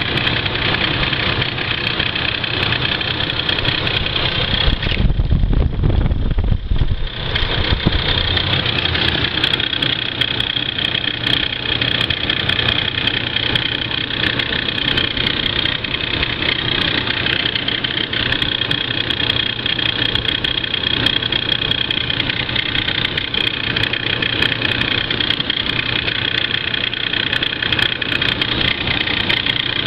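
Ford Crown Victoria V8 engine idling, warmed up about five minutes after startup, with a steady high-pitched noise over the running that the owner is recording as a suspected problem. About five seconds in, a deep rumble swells for a couple of seconds while the high noise briefly fades.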